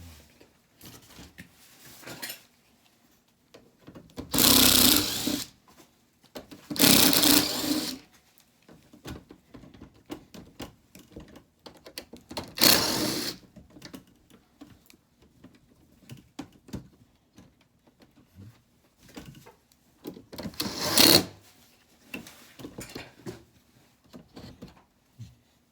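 Handheld power tool, such as a cordless drill or driver, run in four short bursts of about a second each, with light clicks and knocks of handling between them.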